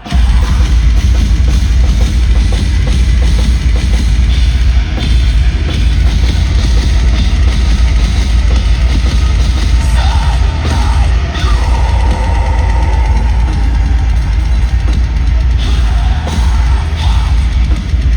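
Metalcore band playing live at full volume: heavy drums and distorted guitars, with a booming, overloaded low end. The full band crashes back in right at the start after a brief drop.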